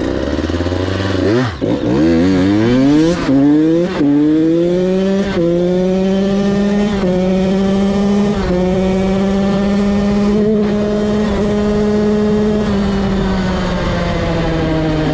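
KTM 85 BigWheel's two-stroke single-cylinder engine accelerating hard from a standstill, its pitch climbing and dropping back at each of about four upshifts in the first five seconds. It then holds a steady high pitch at speed, easing off slightly near the end.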